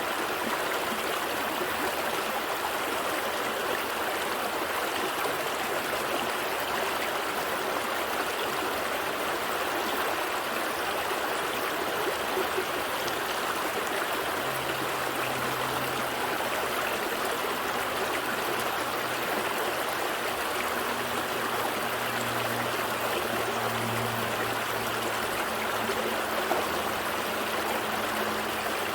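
Gentle stream flowing steadily over rocks, a continuous even rush of water. A faint low hum joins in about halfway through.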